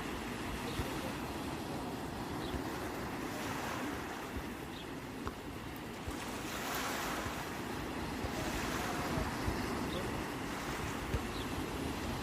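Sea waves washing on the shore, a wave swelling louder about seven seconds in, with wind rumbling on the microphone.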